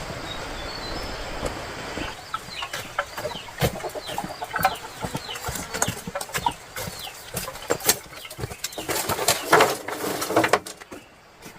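Chickens peeping and clucking, with short falling chirps, wing flapping and scratching or pecking knocks, and a louder flurry of flapping near the end. A steady rushing noise before them stops abruptly about two seconds in.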